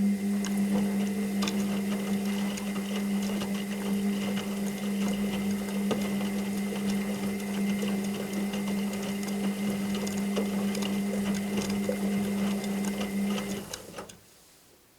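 Washing machine motor running with a steady, unchanging hum and a faint high whine over a scatter of small rattles and clicks. It stops abruptly near the end.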